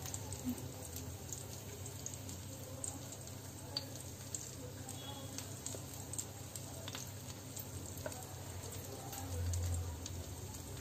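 Brinjal slices frying on a nonstick tawa in mustard oil over a low flame: a gentle, steady sizzle with scattered small crackles, and light clicks of a spoon spreading gram-flour paste over the slices. A brief low rumble comes near the end.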